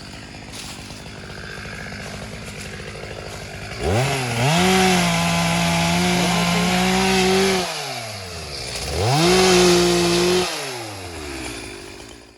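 Chainsaw engine idling, then revved up twice to high speed, held for a few seconds each time, and let fall back.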